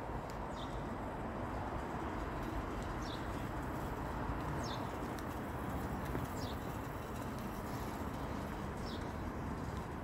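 A small bird repeating a short, high, falling call about every two seconds, over steady background noise.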